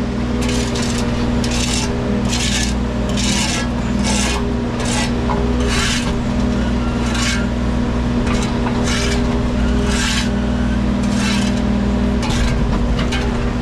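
Wacker Neuson mini excavator's diesel engine running steadily while the bucket works the blacktop, with short rasping scrapes coming roughly once a second.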